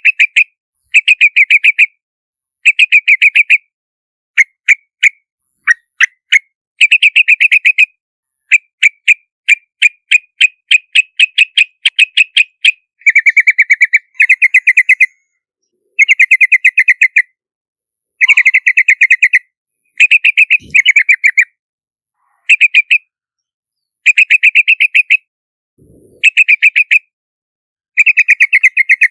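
Yellow-vented bulbul calls: rapid chattering bursts of sharp notes, each burst about a second long, repeated after short pauses, with a few single notes in between.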